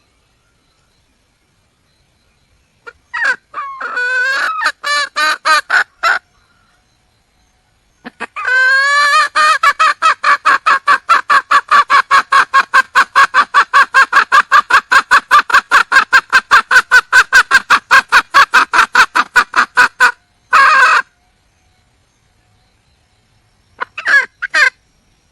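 Wild junglefowl hen calling for a male: a short run of rapid clucks, then a long, even run of rapid clucks about six a second lasting over ten seconds, ending in one harsher squawk, with a couple of short notes near the end.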